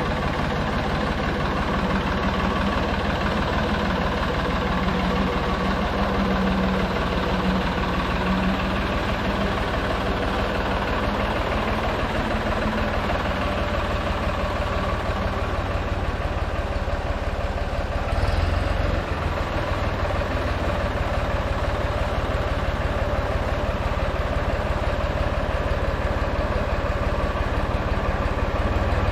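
Tractor-loader-backhoe engine running steadily at a low, idle-like speed, with a brief louder clunk about eighteen seconds in.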